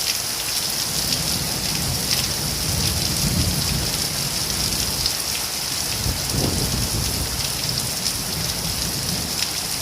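Steady rain falling, an even hiss with many small drop strikes ticking close by, over a low rumble that swells a little around the middle.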